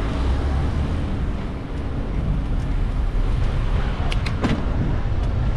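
Steady low rumble of road traffic, from cars and a bus running just ahead, heard from a bicycle. A few short sharp clicks come about four seconds in.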